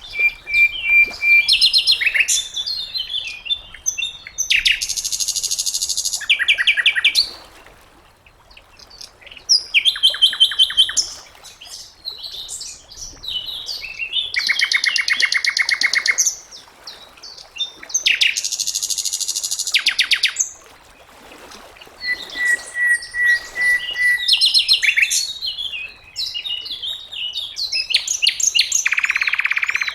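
Sikatan londo songbird singing a varied song: phrases of high chirps, fast rattling trills and steady held whistles, each a second or two long, with short pauses between.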